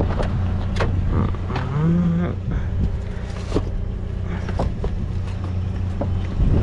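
A vehicle engine running steadily with a low hum, with scattered clicks and knocks from handling and a short creak about two seconds in.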